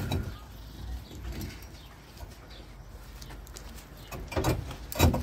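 Two sharp knocks about half a second apart near the end, the loudest sounds here, against a quiet background with a bird cooing, typical of a pigeon or dove.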